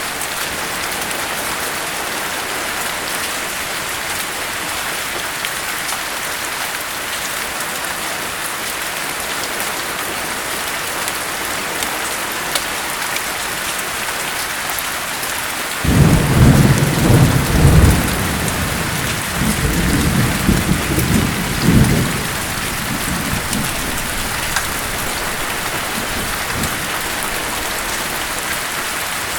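Steady rain pattering, with a loud roll of thunder that cracks in suddenly about halfway through, rumbles for around six seconds and fades back into the rain.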